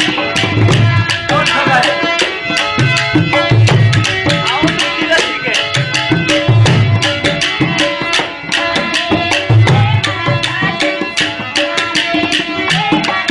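Instrumental interlude of Rajasthani folk music: hand drums play fast, steady strokes over a sustained melody.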